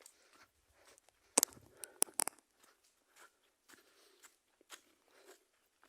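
Footsteps crunching and rustling on rough, muddy ground while walking, with a few sharp clicks about a second and a half to two seconds in.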